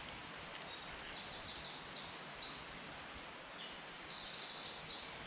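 A songbird singing in woodland: a run of short, high whistled notes with two quick trills, over a steady background hiss.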